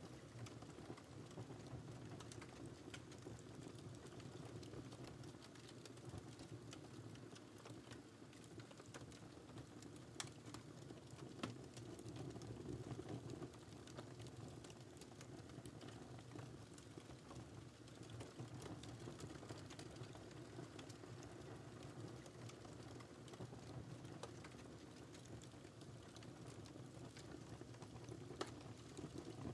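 Faint wood fire crackling: a steady low rustle of flames, with scattered sharp pops, a few stronger ones about ten seconds in, a second and a half later, and near the end.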